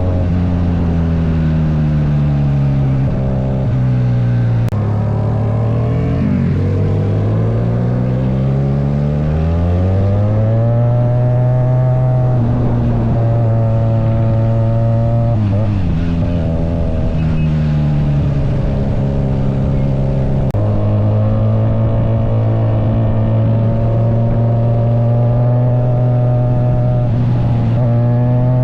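Bristol SRK400 motorcycle engine and exhaust running under way. The note climbs with the revs and drops back several times, stepping down sharply at gear changes, for example about five seconds in and again around twenty seconds in.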